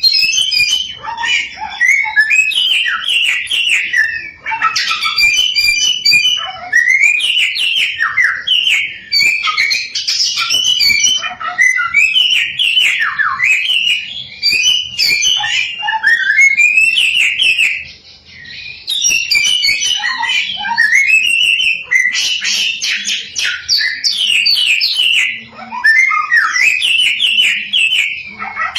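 Samyong songbird singing almost without pause: a rapid, varied stream of whistled, slurred and sweeping notes, broken by one brief lull about two-thirds of the way through.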